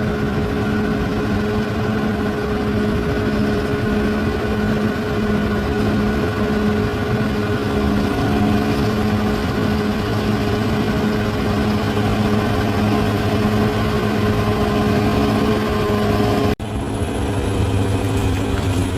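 Bulldozer's diesel engine running steadily at working revs, a strong steady hum with several layered tones. It breaks off abruptly for an instant near the end and carries on with a slightly different tone.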